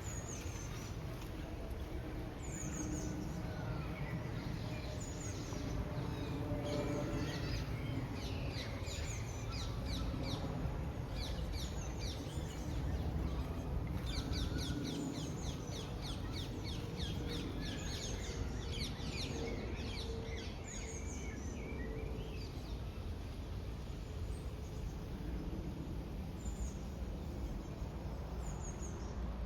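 Several small birds chirping and singing in quick runs of short, high notes, heard throughout, over a steady low rumble.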